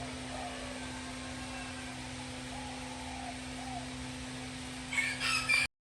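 A rooster crowing about five seconds in, cut off abruptly after well under a second, over a steady background hum.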